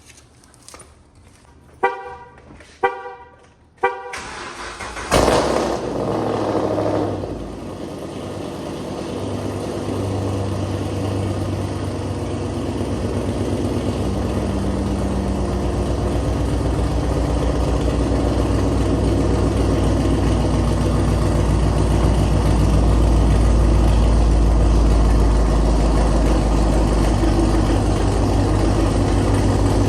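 Three short car horn honks, then a car engine starts with a loud burst about five seconds in and settles into a steady low idle rumble that slowly grows louder.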